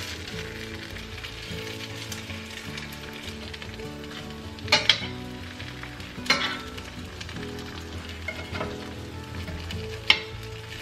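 Panko-breaded chicken patties sizzling steadily as they fry in avocado oil in a stainless steel skillet. A metal spatula clinks sharply against the pan a few times as the patties are turned, about halfway in and again near the end.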